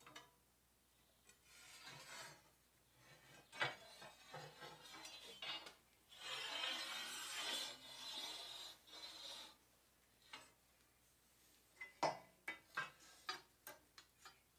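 Quiet rubbing strokes of a small deburring stone along the edges of a steel flat bar, with a longer stretch of rubbing in the middle. A run of light metallic clicks and clinks follows near the end.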